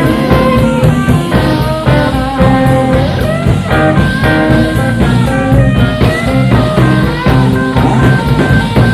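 Blues-rock band playing live with no singing: electric guitar lead with bent notes over bass and drums, heard through a soundboard recording.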